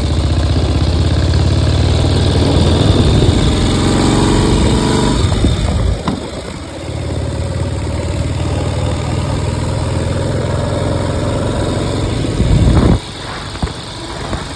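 1953 Harley-Davidson Panhead V-twin engine running. It drops to a lower, steadier level about six seconds in, rises briefly near the end, then falls off sharply.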